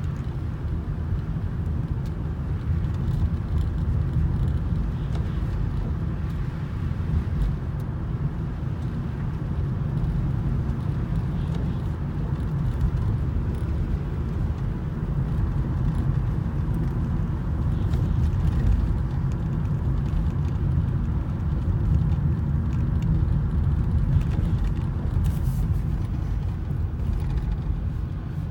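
Steady low rumble of vehicle noise, with no clear events standing out.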